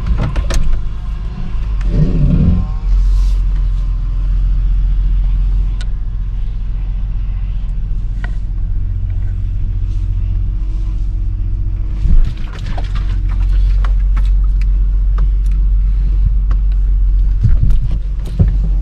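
A car driving: a steady, heavy low rumble of engine and road noise, with a few scattered clicks and knocks and a short louder jolt about twelve seconds in.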